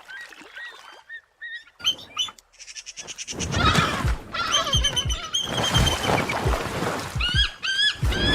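Bald eagles calling with thin, high chirping whistles in short runs. From about three seconds in, a louder noisy scuffle with repeated thuds as the eagles fight, with more high calls over it and again near the end.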